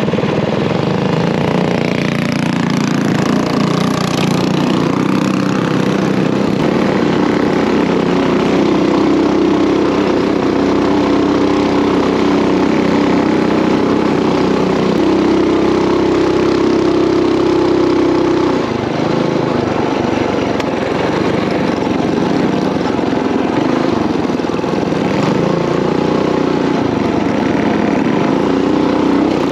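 Coleman mini bike's small single-cylinder engine running steadily, its pitch shifting a little with the throttle and easing off briefly about two-thirds of the way through.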